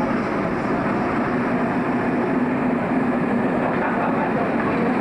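A train running, a steady rumble with a low hum that holds throughout.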